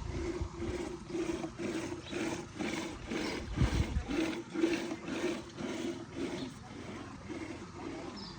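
Curd being churned by hand into butter and lassi: a rhythmic sloshing, about three strokes a second.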